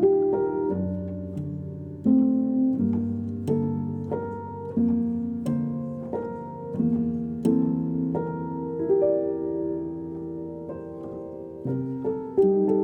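Background music: a slow, gentle solo piano piece, its notes struck one after another and left to ring and fade.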